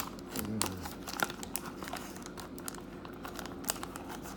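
Hockey card box and its packaging being handled and opened by hand: irregular crinkling, small crackles and clicks, with a sharper click right at the start.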